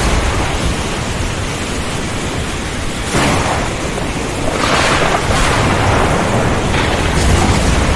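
A heavy thunderstorm: steady dense rain noise over a low rumble, with sudden crackling surges of thunder about three seconds in and again around five seconds.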